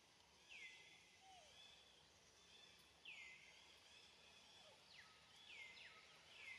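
Faint outdoor ambience: a steady high hiss with a bird repeating a short downward-sliding call about three times, a couple of seconds apart.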